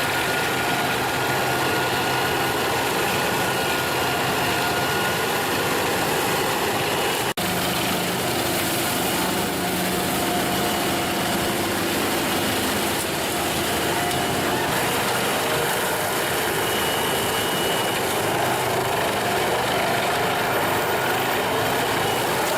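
Wood chipper's engine running steadily, a dense continuous mechanical din with faint steady whines over it. The sound drops out for an instant about seven seconds in and carries straight on.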